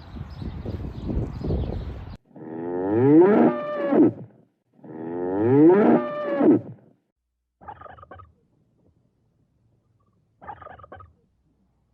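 Cow mooing twice, two loud calls of about two seconds each, after a couple of seconds of noise. Two brief, quieter sounds follow later.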